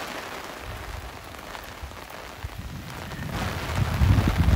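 Heavy rain falling steadily. In the last second or so it is joined by a growing low, buffeting rumble of wind on the microphone.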